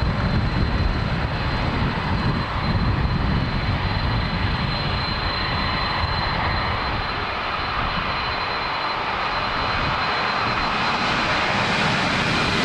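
Boeing 737 jet engines running with a steady low rumble and a thin, steady high whine; the rumble eases a little after the first few seconds.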